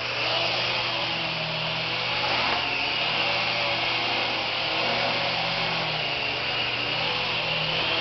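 Syma S107 mini coaxial RC helicopter in flight: its small electric motors whine and the rotors whir steadily, the pitch wavering a little.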